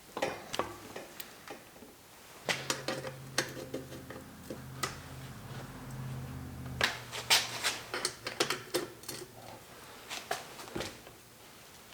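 Irregular clicks and metallic clinks of hand tools and bicycle parts being handled and fitted, thickest a little past the middle. A low steady hum runs for about four seconds, starting a couple of seconds in.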